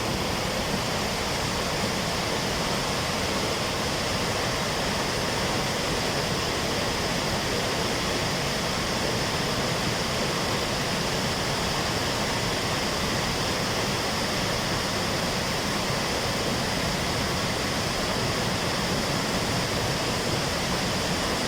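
Ban Gioc waterfall heard up close: a steady, unbroken rush of heavy falling water.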